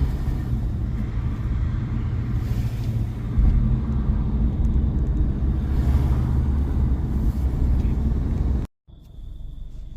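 Steady low rumble of road and engine noise inside a moving car's cabin. It cuts off abruptly near the end, giving way to a much quieter cabin with a faint, steady high tone.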